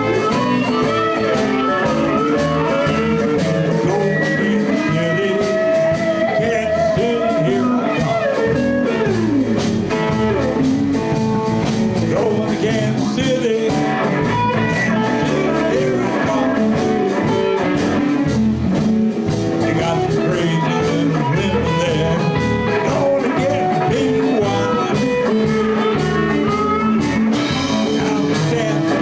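Live blues band playing an instrumental stretch: guitar over bass and drums with a steady beat.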